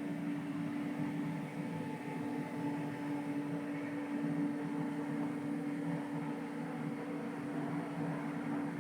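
Steady mechanical hum with one constant low tone over a light hiss, unchanging throughout.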